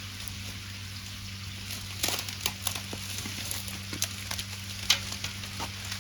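Wood fire crackling: irregular sharp pops and snaps over a steady hiss, the pops starting about two seconds in, with one loud pop near the end.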